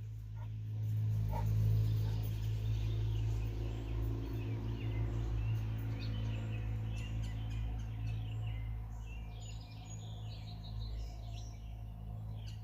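Birds chirping over a steady low hum that swells about a second in.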